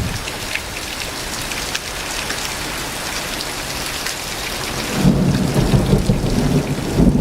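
Heavy thunderstorm rain pouring down, with many drops pattering and ticking. About five seconds in, a low rumble of thunder swells up and runs on.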